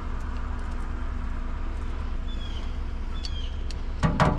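Vehicle engine idling steadily, with a few short high chirps over it and two sharp knocks about four seconds in.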